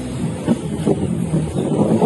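Motorcycle engine running, uneven and rough, its pitch rising near the end.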